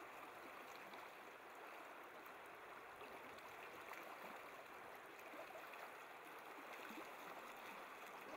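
Faint, steady rush of a mountain creek's flowing water.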